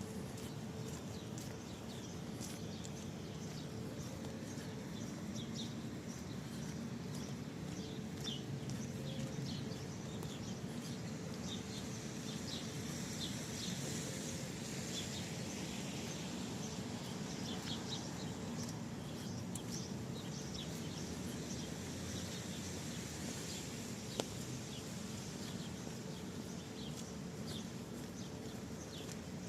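Steady rain with the footsteps of someone walking, and small birds chirping again and again. A single sharp click comes late on.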